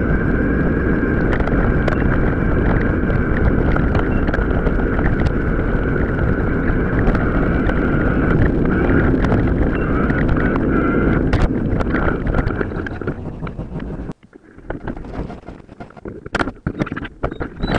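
Wind buffeting the microphone over the rumble and rattle of a mountain bike riding an off-road track, with frequent clicks and knocks. About fourteen seconds in the rumble drops away sharply, leaving scattered clicks and knocks.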